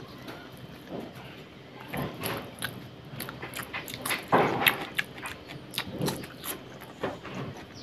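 Close-miked eating of curry and rice by hand: wet chewing and lip-smacking clicks, with one louder bite about four seconds in as a handful goes into the mouth.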